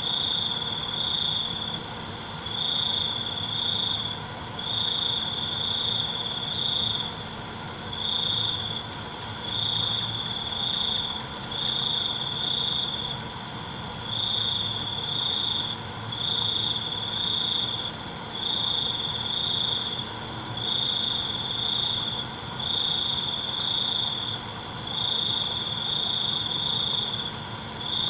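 Night chorus of crickets. A loud, high chirping trill comes in bursts of about a second, roughly every two seconds, with softer trills and a steady high-pitched insect hiss behind it.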